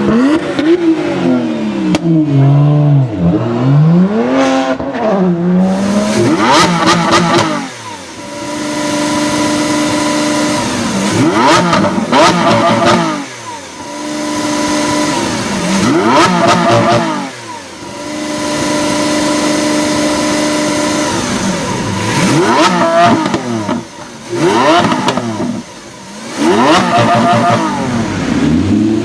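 Sports car engine being revved. After some low, wavering throttle blips, the revs rise sharply and are held steady high for a couple of seconds, then drop back. This happens several times over.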